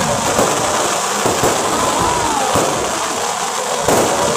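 Aerial fireworks going off in a dense, continuous run of pops and crackles, with a louder burst near the end.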